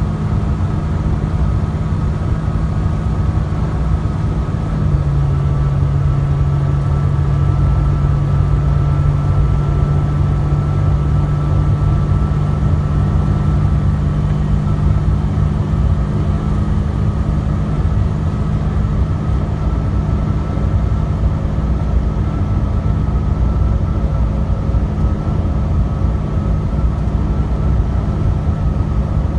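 Truck cab interior at highway speed: the diesel engine's steady drone over low road rumble. The engine note steps down slightly about five seconds in, then holds steady.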